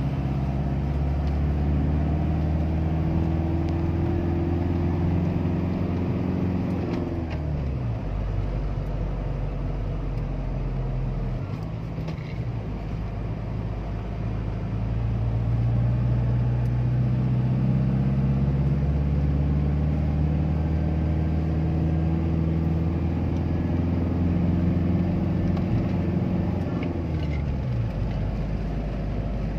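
A vehicle's engine heard from inside the cabin, its revs rising slowly and then falling away sharply about seven seconds in. The engine pulls up again from about halfway, revs climbing, and drops once more near the end, over a steady road rumble.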